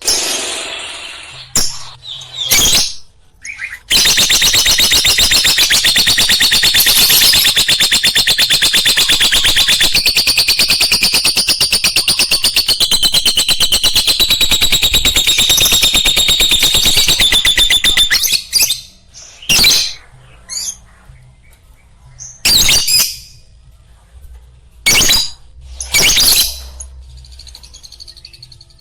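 Lovebird chattering: a few short calls, then from about four seconds in a fast, unbroken run of high chirps lasting about fourteen seconds, followed by a handful of short separate squawks.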